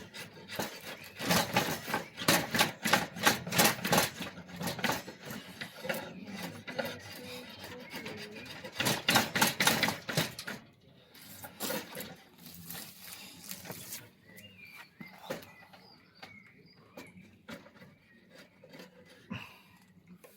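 A hand tool working the wood of a bow limb in quick, repeated rasping strokes. The strokes come in bursts, loudest in the first four seconds and again around nine to ten seconds, then become quieter and sparser.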